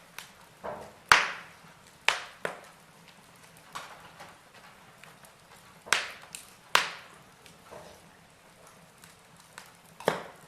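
Wood fire of burning logs in a fireplace crackling, with sharp irregular pops over a faint low hiss; the loudest crack comes about a second in, with others near two, six, seven and ten seconds.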